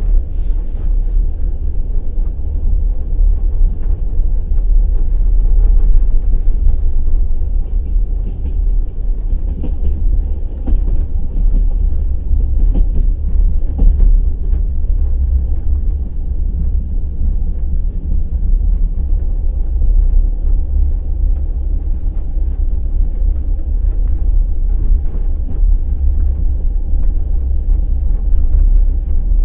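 Passenger train running along the line: a steady deep rumble from the carriage with the wheels clattering on the rails, the clatter most noticeable about a third of the way through.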